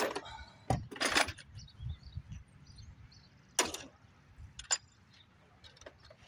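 Tools being handled: a few short clatters and clinks, the loudest near the start and about three and a half seconds in, with quiet between.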